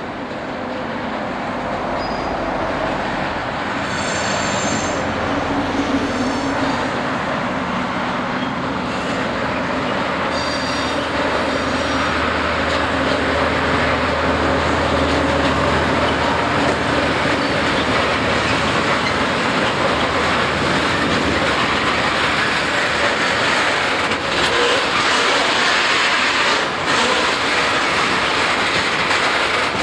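Railway wagons rolling past on the track, growing louder over the first half and then holding steady. Short high wheel squeals come about four seconds and about ten seconds in.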